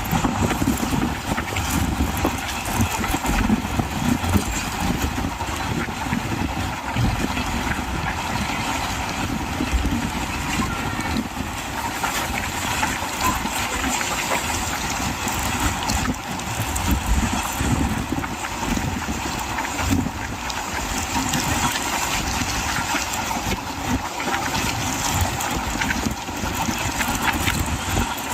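A train running, a steady loud rumble with no breaks.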